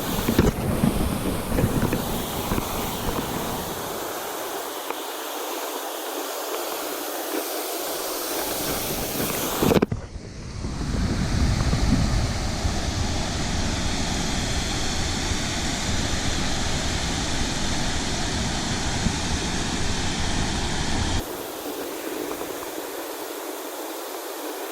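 Steady rush of river water, with wind buffeting the microphone in low rumbling gusts. The sound changes abruptly twice, about ten seconds in and again near the end.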